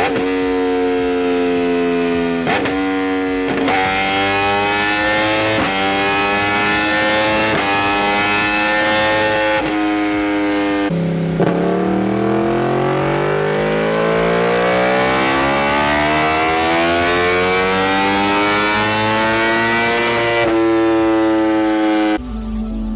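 Superbike engine and exhaust under hard acceleration. The pitch breaks and drops back several times in the first ten seconds, as it does at gear changes, then climbs steadily for about nine seconds before falling away near the end.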